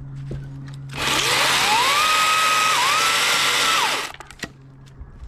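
DeWalt 60V top-handle battery chainsaw spinning up to speed with a rising whine, dipping briefly in pitch midway as the chain takes load, then winding down and stopping about four seconds in.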